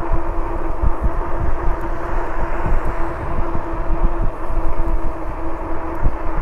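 Electric bike's rear hub motor whining at a steady pitch under throttle, with wind buffeting the microphone.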